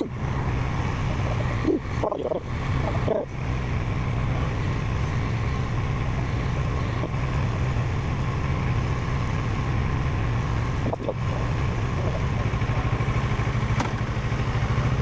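Parallel-twin motorcycle engine running at low revs. About twelve seconds in, its note drops and settles into a slower, evenly pulsing beat.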